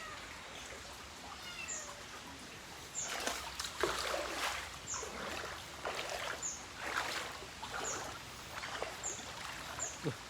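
Floodwater splashing and sloshing in irregular bursts from about three seconds in, as of wading through knee-deep water. A short high chirp repeats about once a second throughout.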